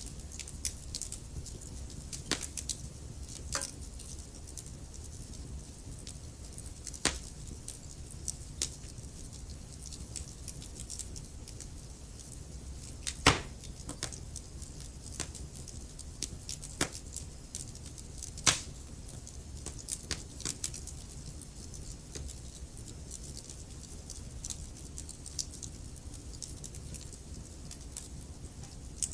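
Wood fire burning in a fireplace, with a low steady rumble and scattered crackles and sharp pops from the logs, the loudest pops about halfway through and again a few seconds later.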